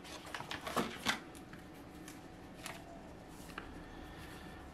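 Cardboard and paper packaging rustling and being handled as the contents of a smartphone box are taken out, with a cluster of short rustles in the first second and two more, sparser, later on.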